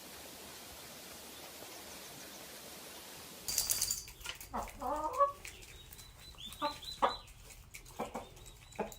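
Faint steady hiss for the first few seconds, then chickens clucking: a run of short, irregular calls.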